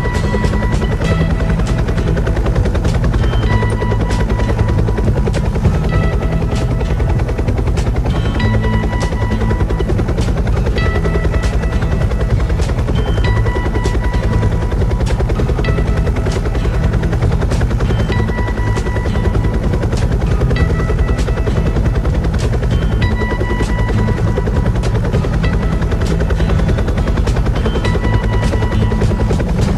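Steady, rapid helicopter rotor chop with music playing over it; short high notes come and go in repeating phrases.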